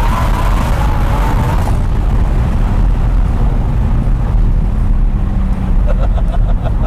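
Twin-turbo Lamborghini heard from inside the cabin at the end of a hard pull: a high turbo and engine whine cuts off about a second and a half in, leaving a heavy low rumble of engine and road. A run of quick, even ticks comes near the end.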